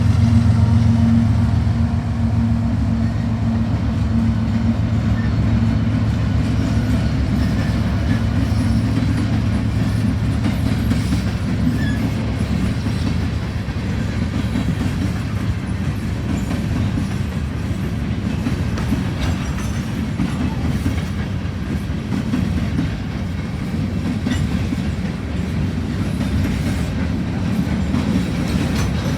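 A train passing close by. The low steady hum of diesel locomotive engines fades over the first few seconds, then railcars roll past with a continuous low rumble and wheel clatter over the rail joints.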